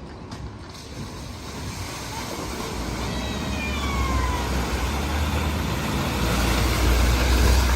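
A vehicle driving through flood water at a ford: engine rumble and the wash of water grow louder, peaking near the end.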